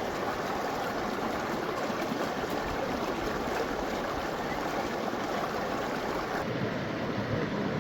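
Steady rushing of a flowing stream, an even wash of water noise that dulls slightly about six and a half seconds in.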